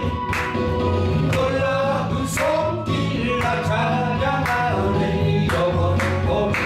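Korean gospel praise song: sung melody over band accompaniment with a steady beat and bass.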